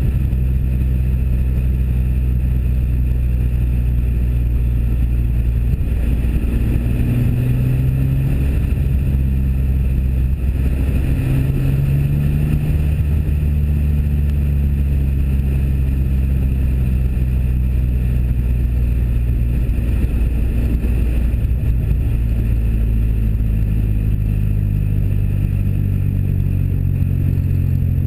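1997 Pontiac Firebird's engine and exhaust running under way, the engine note shifting in pitch a few times, with wind noise buffeting the camera's cotton-covered microphone.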